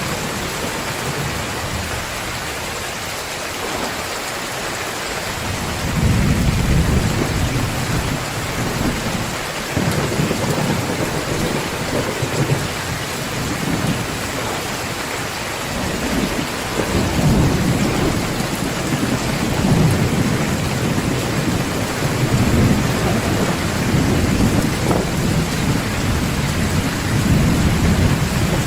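Heavy rain pouring steadily, with low thunder rumbles that swell and fade several times.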